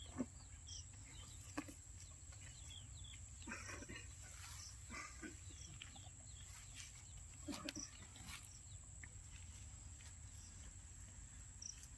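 Quiet outdoor ambience: faint, scattered chirps and calls of distant birds and farm animals, a few soft knocks, and a steady faint high-pitched whine.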